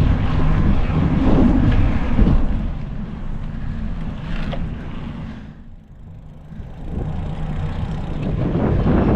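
Wind buffeting the microphone of a camera on a moving bicycle: a loud, gusty low rumble that drops away for about a second past the middle, then builds back.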